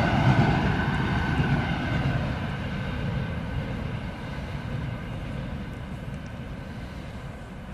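A train going away after passing, its rumble and a faint steady whine fading gradually.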